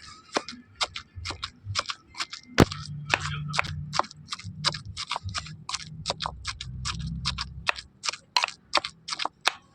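A kitchen utensil knocking rapidly and regularly on food against a hard surface, about three or four sharp knocks a second, as chutney ingredients are pounded or chopped. A low hum runs underneath through the middle.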